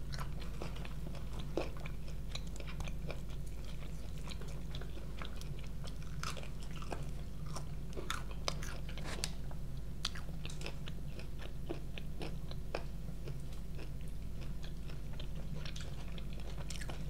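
Close-miked chewing and biting of KFC fried chicken, with many short, crisp crackles scattered throughout, over a steady low hum.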